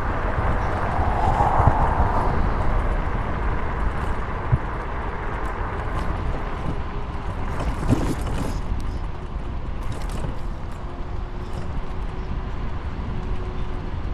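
Steady wind rush on the microphone mixed with road noise while riding along, with a few faint clicks.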